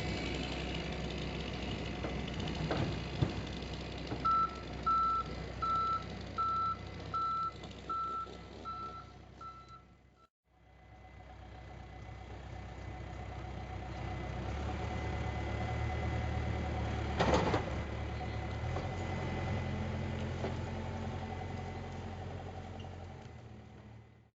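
A vehicle's reversing alarm beeps steadily, about one and a half beeps a second for about six seconds, over a running engine. After a break, an engine runs steadily, with one loud knock partway through.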